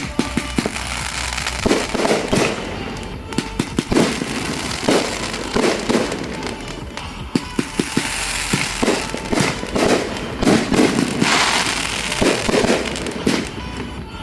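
Aerial fireworks going off in rapid succession, many sharp bangs one after another, with a long stretch of crackling about eleven seconds in.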